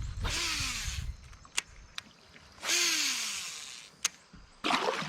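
Kayak paddle strokes in the water: three splashing, swishing strokes a couple of seconds apart, with a few small knocks between them.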